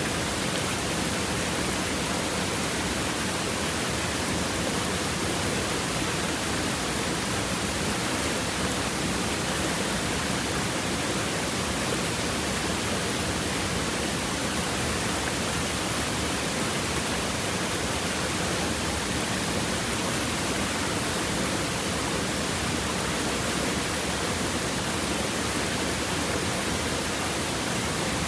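Water of a rocky river flowing over stones in a steady, even rush.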